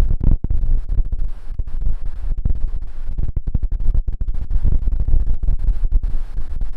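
Strong wind buffeting the microphone: a loud, uneven low rumble that swells and drops.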